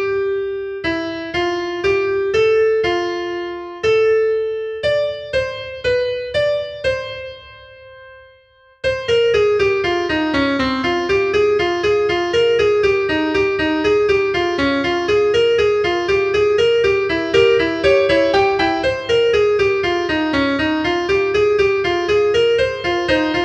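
Instrumental piano music. A slow melody of single struck notes rings and fades away, then about nine seconds in a fast, flowing run of notes starts abruptly and carries on.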